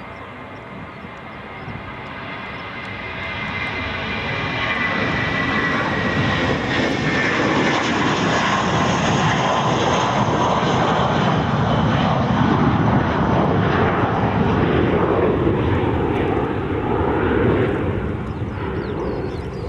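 Fixed-wing aircraft's engines at takeoff power as it passes close by. The sound grows louder over the first few seconds and stays loud, with a whine that falls in pitch as the aircraft goes by.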